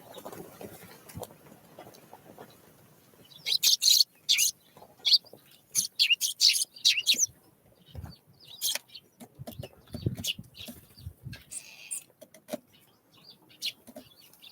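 Small songbirds giving short, sharp, high chirps in quick clusters, thickest a few seconds in and scattered after, with a couple of low thumps in the middle.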